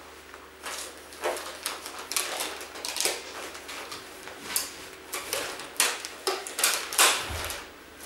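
Things being handled and packed away: a string of irregular rustles, clicks and knocks.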